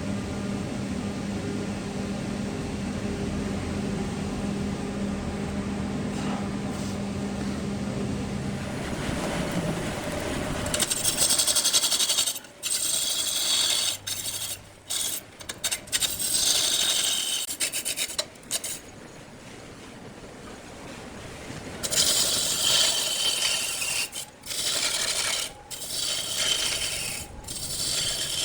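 A wood lathe running with a steady hum. From about eleven seconds in, a tool scrapes against the spinning wood in repeated loud passes with short breaks between them.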